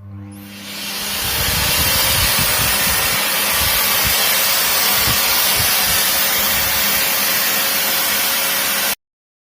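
Electrolux PowerForce EPF63EB canister vacuum cleaner switched on: its motor spins up over the first second or so into a steady loud rushing whirr, then cuts off suddenly near the end.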